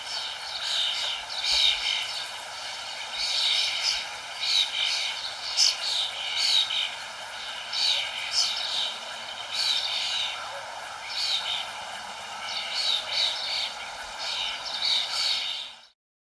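Birds chirping busily in short, quickly repeated falling notes over a steady background hiss; all of it cuts off suddenly near the end.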